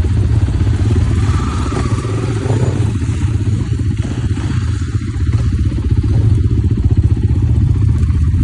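Off-road motorcycle engine running steadily, with no big revs, its firing pulses close and fast.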